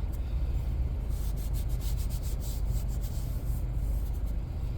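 Quick back-and-forth rubbing strokes on a vinyl car seat, about a dozen from about a second in to near the end, over a steady low hum.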